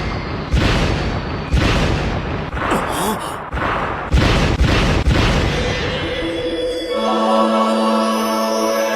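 A run of heavy booming sound-effect hits, roughly one a second, followed about seven seconds in by a sustained held music chord.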